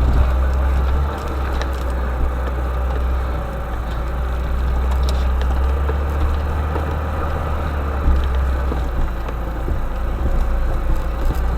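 Motor vehicle driving on a forest track: a steady low engine drone with some knocks and rattles.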